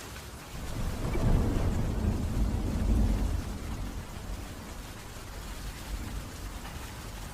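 Thunderstorm: a rumble of thunder builds about half a second in, rolls for about three seconds and dies away, over steady rainfall.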